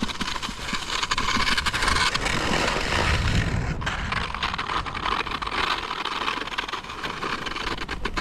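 Monoski (sit ski) sliding and carving over packed snow: a steady scraping rush of the ski on the snow.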